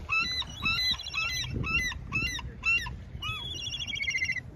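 Birds calling over and over: short, sharp, hooked calls, several a second, with a run of quick notes falling in pitch near the end.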